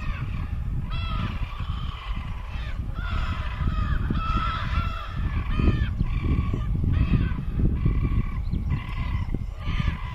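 Birds calling over and over in a series of short calls, each several tones stacked together, over a steady low rumble.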